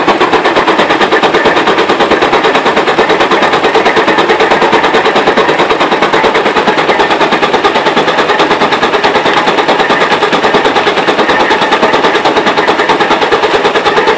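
Detroit DD15 diesel engine running at idle just after starting, heard up close as a loud, fast, even clatter. It has just been restarted after a fuel filter change that lost prime, with the fuel system hand-primed.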